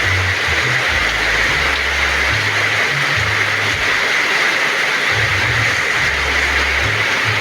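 Heavy rain falling steadily, a dense even hiss, with an uneven low rumble coming and going underneath.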